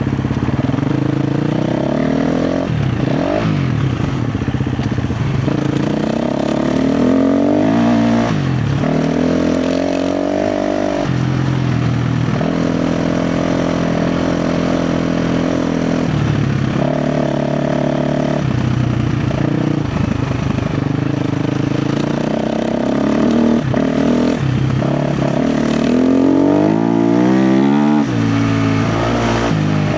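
KTM 350 XC-F dirt bike's single-cylinder four-stroke engine revving up and down over and over as the throttle is worked, with a few stretches held at a steady pitch.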